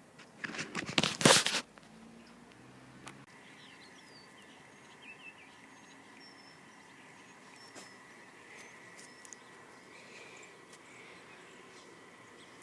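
A short, loud clatter about half a second in, then faint birds chirping over a steady high-pitched hum.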